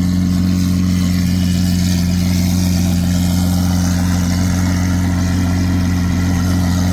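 Lamborghini Aventador SV's 6.5-litre V12, fitted with a Gintani F1 exhaust, idling steadily with a deep, even hum.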